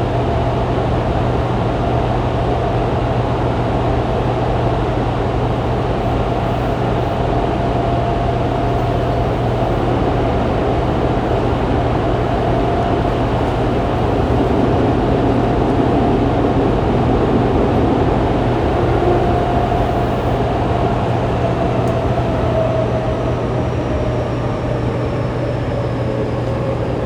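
Running noise inside a Fukuoka City Subway 2000-series car with a Hitachi late-type GTO-VVVF inverter: the steady rumble of the train in the tunnel, with the cabin air conditioning humming throughout. In the last several seconds the motor and inverter tones fall in pitch as the train slows for the next station.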